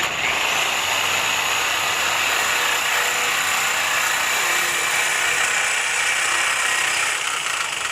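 A power tool cutting into an exhaust pipe. It starts abruptly with a loud, steady, high grinding noise and runs for about eight seconds before it eases off near the end.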